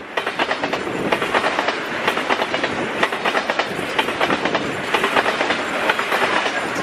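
Freight train of oil tank cars rolling past, its wheels clacking over the rail joints in a steady, rapid run of clicks over a constant rumble.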